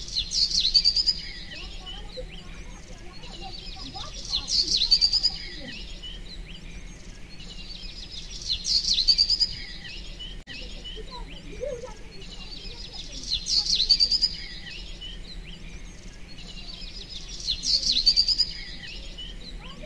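Bird chirping: a short burst of high tweets that repeats about every four and a half seconds, over a steady low hum.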